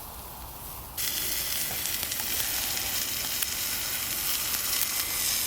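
Food sizzling in a hot frying pan, a steady crackling hiss that starts suddenly about a second in.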